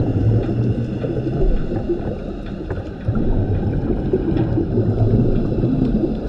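Underwater sound of a scuba diver's regulator: exhaled bubbles rumbling and gurgling past the camera, easing briefly about two and a half seconds in before the next breath out.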